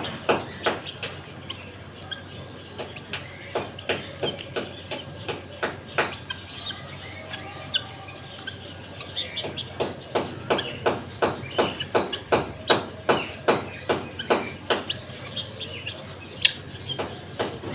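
Small birds chirping in short, sharp calls, several a second, getting busier and louder about halfway through.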